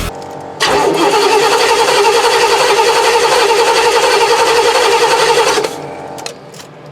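Oldsmobile 455 V8 of a 1976 GMC motorhome cranking on its starter with the spark plugs out, with a fast even pulsing, for about five seconds before stopping suddenly. This is a compression test: the cylinder being tested reads about 120 PSI.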